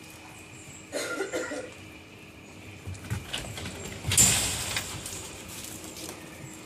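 Dogs playing, with a short dog sound about a second in and a louder, harsher burst just after four seconds.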